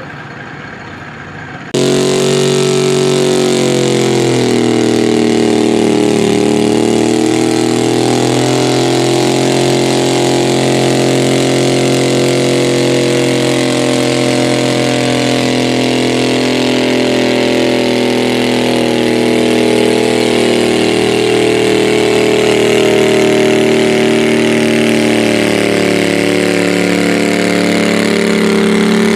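Modified garden tractor engine from a lite altered pulling class running hard at high revs. It comes in suddenly about two seconds in, its pitch dips and recovers a few seconds later, then it holds steady under load.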